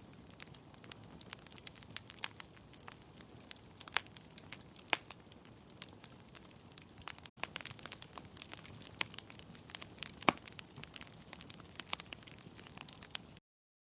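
Wood fire crackling in a fireplace: irregular sharp pops and snaps from burning logs over a low hiss. There is a split-second gap about halfway, and the sound cuts off abruptly near the end.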